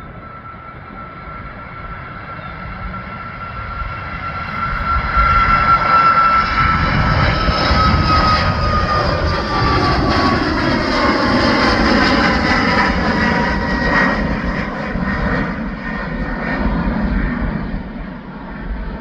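Boeing 737 MAX 8's CFM LEAP-1B turbofans at takeoff power as the jet departs. The engines grow louder over the first several seconds, and their whining tone falls in pitch as the aircraft passes.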